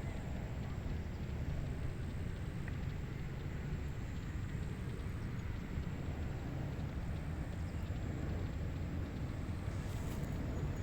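Wind blowing steadily across a rice paddy, a constant low rumble with a fainter hiss above it.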